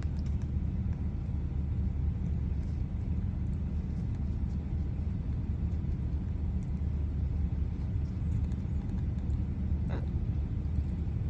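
Steady low engine rumble with no change in speed, with a single faint click about ten seconds in.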